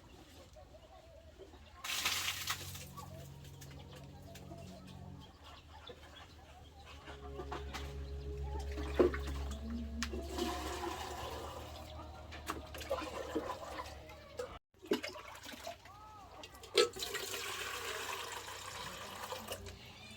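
Water pouring and splashing in uneven surges, with a sudden break about two-thirds of the way through.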